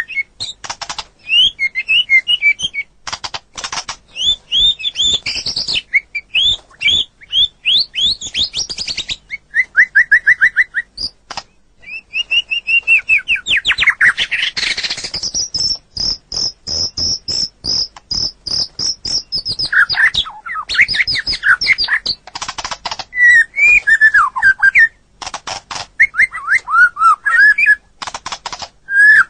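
White-rumped shama (murai batu) singing a continuous, varied song: quick whistled phrases and fast trills, with bursts of rapid harsh clicking notes and a long, high, even trill through the middle.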